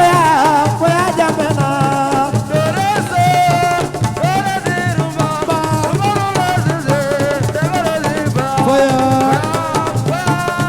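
Assiko band music: a wavering lead melody over a repeating bass line, with drums and shakers keeping a steady beat.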